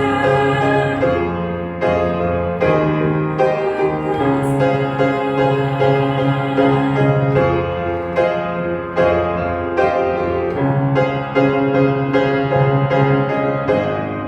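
Instrumental passage of a worship song played on piano, with sustained chords changing every second or two.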